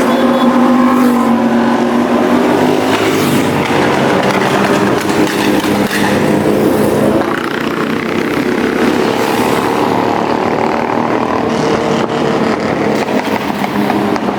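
Superbike engines revving hard as the bikes ride past, the engine note climbing and falling. The sound eases slightly about halfway through.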